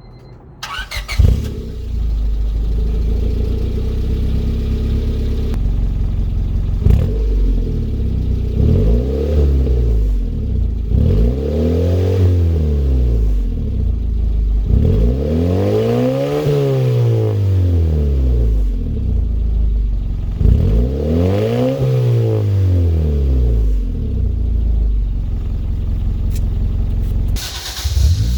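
1998 Honda Civic four-cylinder engine breathing through an HKS Hi-Power muffler on a stainless catback exhaust, starting about a second in and idling. It is then revved several times, each rev rising and falling in pitch, the biggest near the middle.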